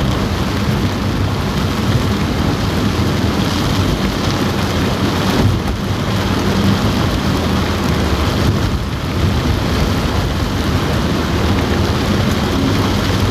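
Heavy rain drumming steadily on a car roof, heard from inside the car, with a steady low rumble underneath.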